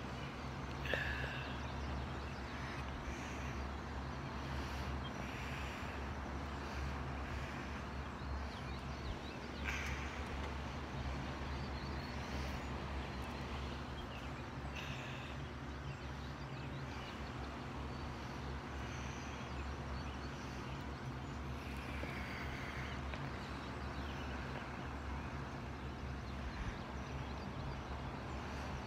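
Birds calling at dawn: short calls scattered a few seconds apart over a steady low hum.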